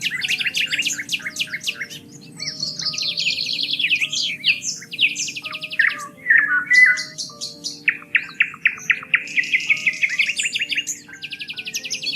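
Several birds singing rapid trills and repeated chirps, one phrase after another, over soft background music of slow held notes.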